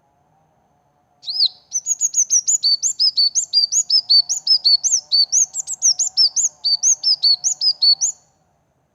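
Small songbird singing a fast run of sharp, high chirps, about five a second, starting about a second in and stopping near the end.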